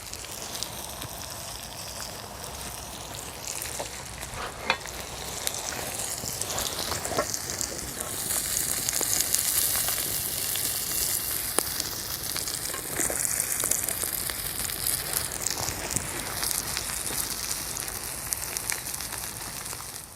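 Eggs and bacon sizzling in a frying pan, a steady hissing spatter with small pops, louder from about eight seconds in.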